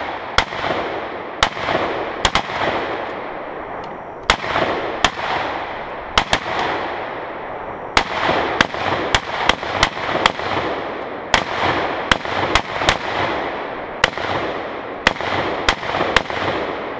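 Rapid, irregular gunfire from several shooters firing at a Tannerite target. There are about two dozen shots, some in quick pairs, and each trails off in a long echo.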